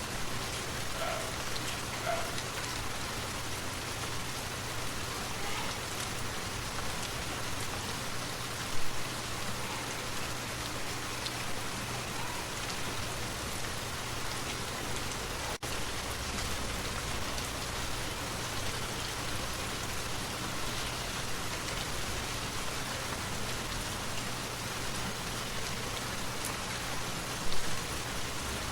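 Steady rain falling: a dense, even hiss of drops, with two brief louder spots about nine seconds in and near the end.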